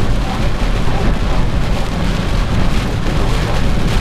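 Steady loud rush of wind and rain with a deep low rumble, from a thunderstorm.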